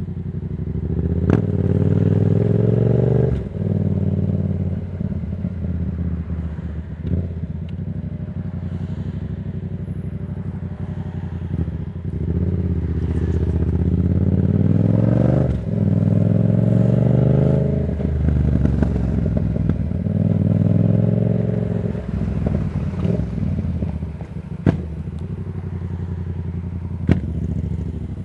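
A 2024 Yamaha MT-07's parallel-twin engine through a Black Widow aftermarket exhaust, under way. It pulls hard twice with the revs climbing, dropping sharply at each gear change, and runs at lighter throttle in between. A couple of sharp cracks come near the end.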